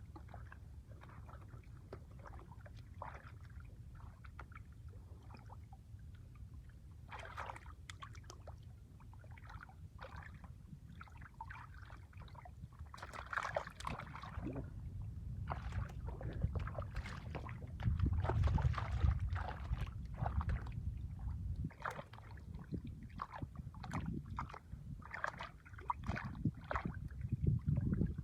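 Shallow water splashing and sloshing in irregular strokes, as from hands or feet working through a muddy pond, over a low rumble that swells about two-thirds of the way through.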